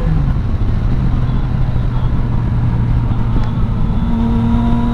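Yamaha Tracer 900's three-cylinder engine with Akrapovic exhaust running at cruise under steady wind noise. The engine note steps down just after the start, then holds steady.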